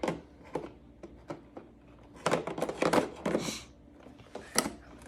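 Plastic clicks and knocks from handling a robot vacuum and fitting its dust-bin filter back into place, a quick cluster of them a little past halfway.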